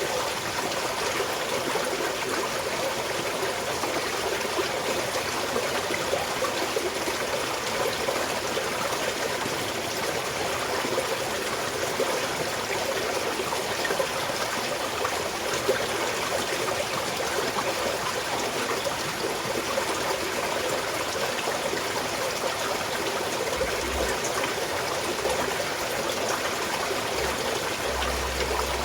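Small mountain stream trickling and flowing steadily over rocks, a continuous splashing rush of water.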